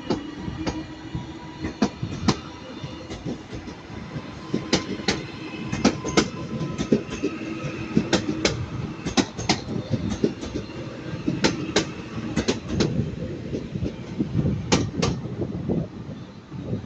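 Passenger train moving slowly through the station, its wheels clicking irregularly over rail joints and points, with a faint steady electric hum underneath.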